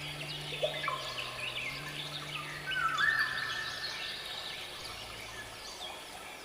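Birdsong: many short chirps and whistles, with a few longer held whistling notes. Under it runs a soft, sustained ambient music drone that shifts pitch and fades out near the end.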